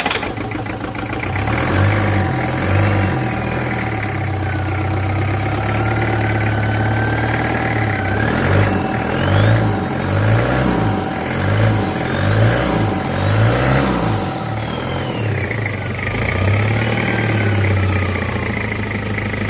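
Nissan QD32 3.2-litre four-cylinder diesel engine running just after starting on an engine test. It settles into a steady idle, then the engine speed rises and falls several times in quick succession in the middle before it settles back to idle.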